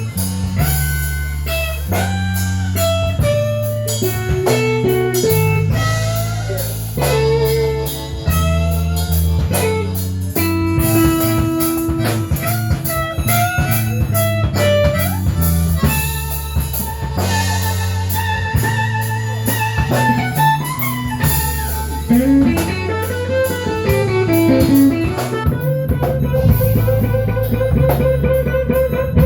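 Electric blues band playing an instrumental break: a lead electric guitar with bent, sliding and held notes over a repeating bass line and a drum kit.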